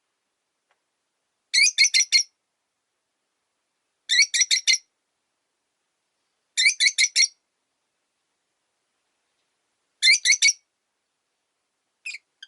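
Rosy-faced lovebird giving shrill chirps in quick bursts of about four notes, each burst repeated every two to three seconds, with one short fainter chirp near the end.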